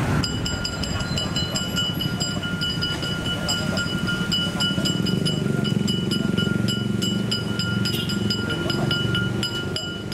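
Passenger train rolling slowly away over the tracks with a low rumble, under a steady high-pitched tone that holds throughout.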